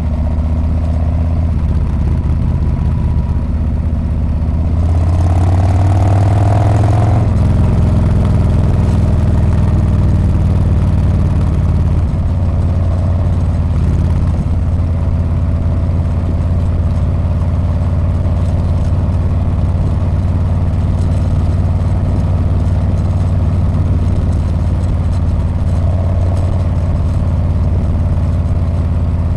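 Harley-Davidson Street Bob's V-twin running through its exhaust while riding. It swells and climbs in pitch about five seconds in as the bike speeds up, then settles into a steady low run.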